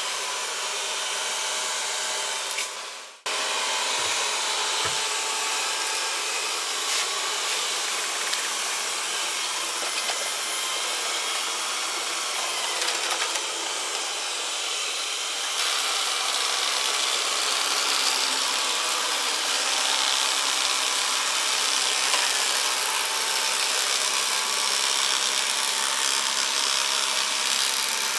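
Xiaomi Mijia robot vacuum cleaner running, a steady whir of its suction fan and brushes that breaks off briefly about three seconds in and gets a little louder from about halfway.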